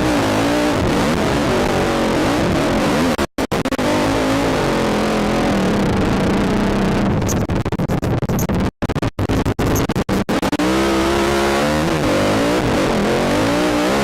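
Quad (ATV) engine revving up and easing off as it is ridden through sand, with wind rush on the helmet microphone. The sound cuts out for a moment about a quarter of the way in, and again several times in the middle.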